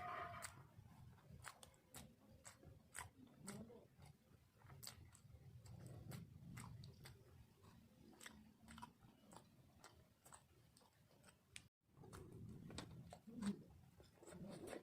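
Close-miked mouth sounds of someone eating soft, saucy food, steamed rice cake with chicken curry: quiet chewing with irregular wet lip smacks and mouth clicks.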